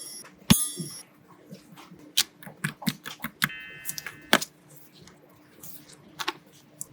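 Paper craft pieces being handled in a paper blind bag unboxing: a run of light taps, clicks and rustles of paper. There is a brief bright ringing sound about half a second in and a short squeak around three and a half seconds in.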